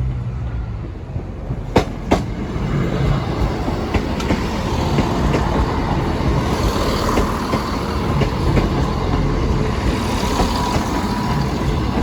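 A train passing over the level crossing, running steadily. Its wheels give two sharp clacks over a rail joint about two seconds in, then fainter clicks as more wheels pass.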